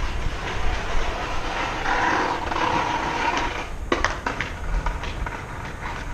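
Skateboard wheels rolling on concrete, with a couple of sharp clacks of the board about four seconds in.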